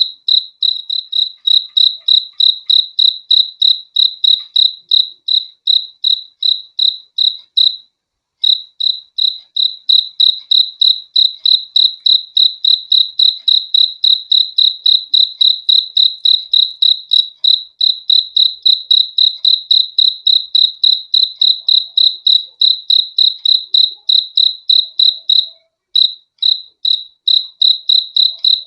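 A cricket chirping in a steady, even rhythm of about three or four high chirps a second, with two brief pauses.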